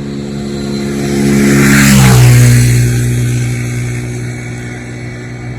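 A motorcycle passing by, its engine note growing louder, then dropping in pitch as it goes past about two seconds in, and fading away.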